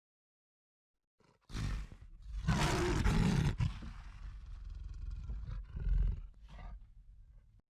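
Lion roaring: a long, loud roar starting about a second and a half in, followed by shorter grunting calls that fade out.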